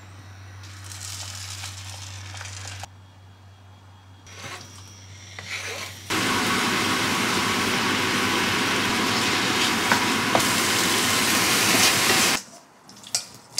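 Diced chicken breast sizzling loudly and steadily in a frying pan, starting suddenly about halfway through as it goes into the hot pan and is stirred, and stopping shortly before the end. Before that, only a low steady hum with faint hiss.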